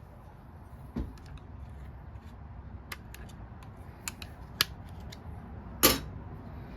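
Scattered light clicks and knocks of hand tools and a small-engine recoil starter being worked on by hand, with one louder knock just before the end.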